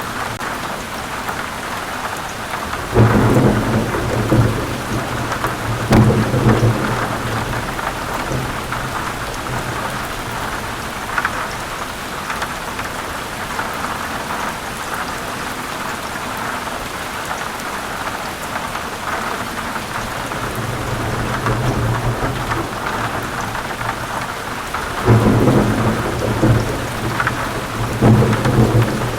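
Heavy rain falling steadily, with rolling thunder rumbling. A loud rumble comes about three seconds in, a softer one builds around twenty seconds, and another loud rumble comes near the end.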